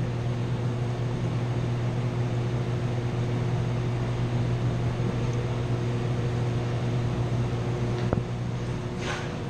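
Steady low mechanical hum of running equipment in the chiller plant, with a single sharp click about eight seconds in.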